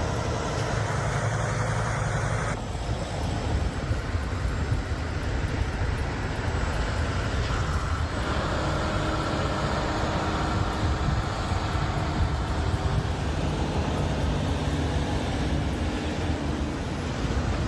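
Vehicle engine and road noise, a steady low rumble under a broad hiss, changing abruptly about two and a half seconds and eight seconds in.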